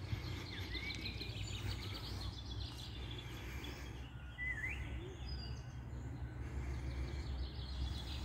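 Small birds chirping, with quick trills in the first few seconds and a single sliding call about halfway through, over a steady low rumble of outdoor background noise.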